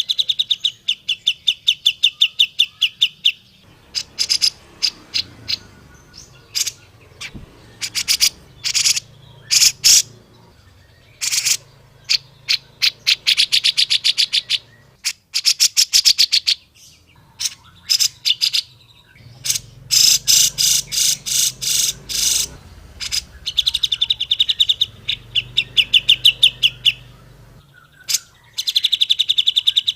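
Grey-cheeked bulbul (cucak jenggot) calling: fast chattering trills of rapid repeated notes, each run lasting two to three seconds, alternating with strings of sharp single chips.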